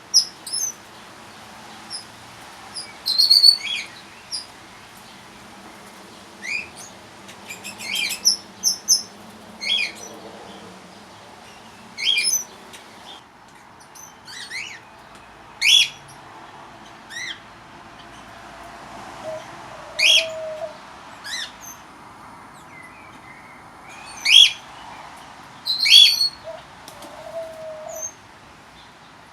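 Aviary birds calling: short, sharp chirps every second or two.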